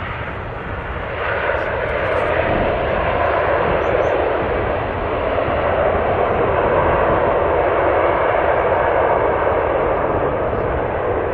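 Turboprop airliner's engines running, a loud steady noise that swells about a second in.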